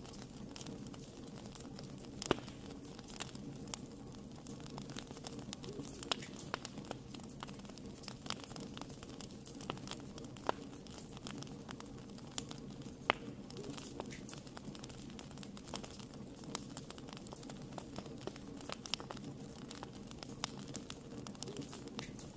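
Wood fire burning in a fireplace: a steady low rumble of flames with irregular crackles and sharp pops of the burning wood, a few pops standing out louder.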